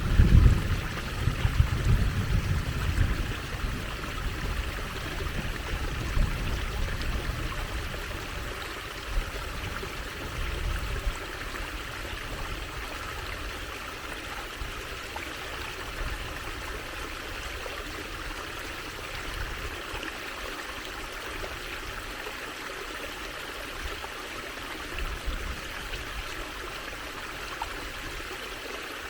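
Trickling stream water, running steadily, with some low rumbling in the first ten seconds or so.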